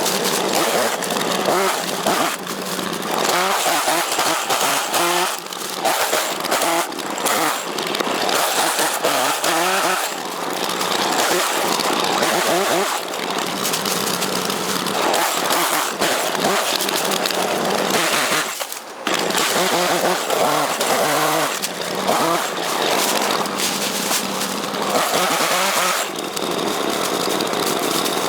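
Chainsaw engine running loudly, revving up and down again and again as it cuts, with a brief drop in the noise a little under two-thirds of the way through.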